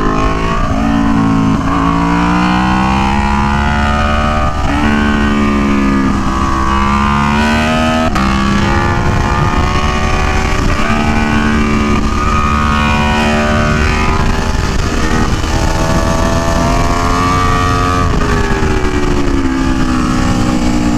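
Aprilia Tuono V4 1100 Factory's 65-degree V4 engine at full-throttle track speed, its pitch climbing through each gear and dropping back at every shift, several times over, with steady wind rush on the helmet microphone.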